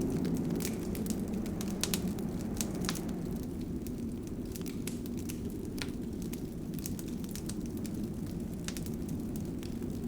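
Wood fire burning in a fireplace, crackling with frequent irregular pops and snaps over a steady low rumble of the flames.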